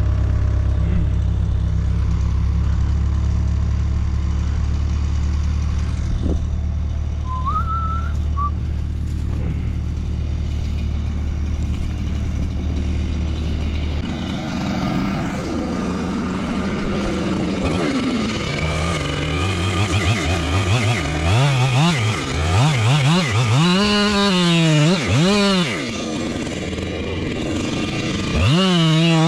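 A heavy engine idles steadily, then stops abruptly about halfway through. After that a Husqvarna chainsaw revs up and down again and again, its pitch swinging, louder near the end.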